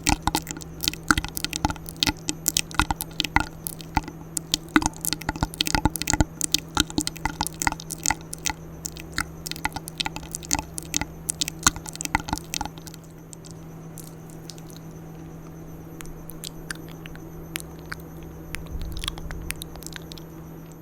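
Close-miked ASMR mouth sounds: rapid wet clicks and smacks, dense for about the first twelve seconds, then fewer and softer, over a steady low hum.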